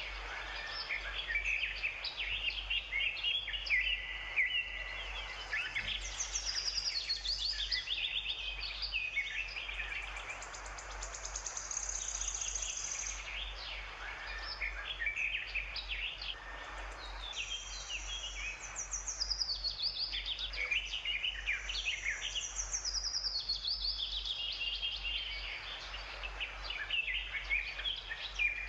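Several birds chirping and singing, with many short high notes and quick falling runs, over a steady low hum.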